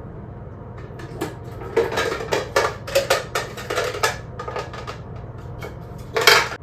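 Dishes and cutlery clattering: a quick run of knocks and clinks for a couple of seconds, then one louder clatter near the end, over a steady low hum.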